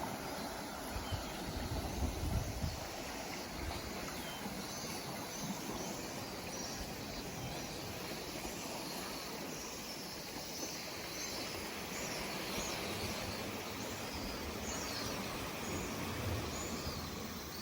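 Outdoor ambience: a steady rushing noise, with short high bird chirps repeating from about a quarter of the way in to near the end. There are a few low bumps in the first few seconds.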